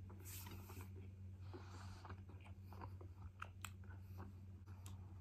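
Faint close-up chewing of a mouthful of burrito: soft, wet mouth clicks and smacks at irregular intervals over a steady low hum.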